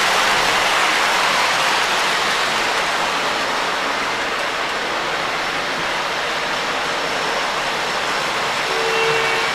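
Lionel Lionmaster SD90 model freight train running on O-gauge track, a steady rushing rumble of wheels and motor. A held tone comes in near the end.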